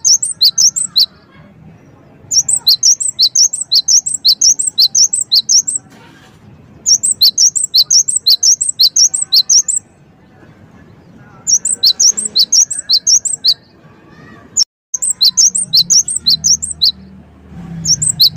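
Gelatik wingko (cinereous tit) singing loudly in repeated bursts of rapid, ringing high notes, about five or six a second, each burst lasting two to three seconds with short pauses between.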